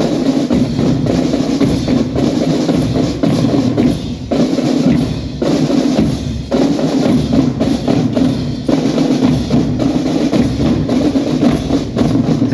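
Marching drum band of snare, tenor and bass drums playing a loud, continuous beat together.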